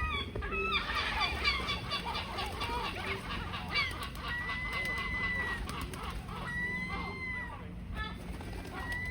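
Gulls calling: a fast run of repeated squawking notes from about a second in to nearly four seconds, then several long drawn-out calls.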